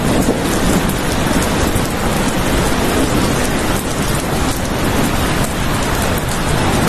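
Steady heavy rain falling and pattering on a surface, with a deep rumble underneath.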